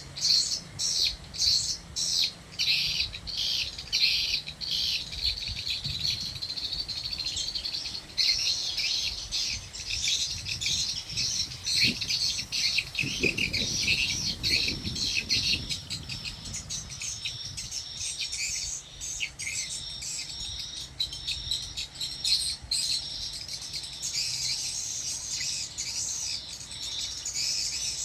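Many swiftlets chirping together in a dense, continuous high twittering, with a faint low hum underneath.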